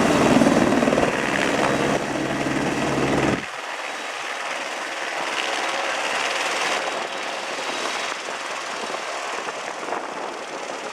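Police helicopter's rotor and turbine running loudly. About three and a half seconds in, the deep rotor beat cuts off abruptly, leaving a fainter engine whine and hiss that slowly fades.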